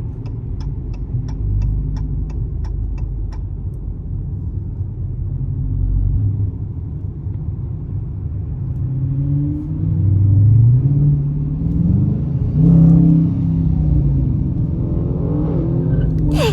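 Car engine and road rumble heard from inside the cabin, with the turn signal ticking about three times a second for the first few seconds for a left turn. Later the engine revs up and down, its pitch rising and falling for a few seconds.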